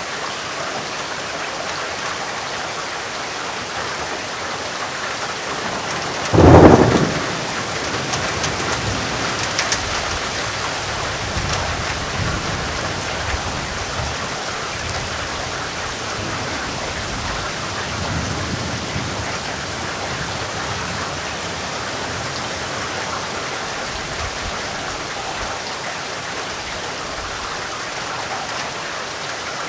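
Steady heavy rain hissing, with a sharp thunderclap about six seconds in, followed by thunder rumbling low for several seconds.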